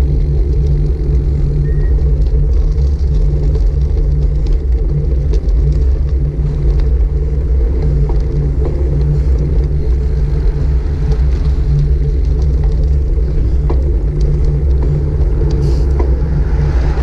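Steady low rumble of wind buffeting a GoPro Hero 5 Black's microphone while cycling, with a brief hiss swelling near the end.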